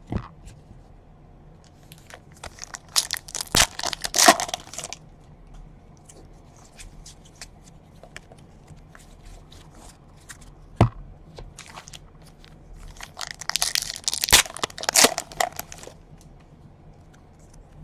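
Trading card pack wrappers being torn open and crinkled, in two bursts about ten seconds apart, with a few sharp clicks in between as the cards are handled.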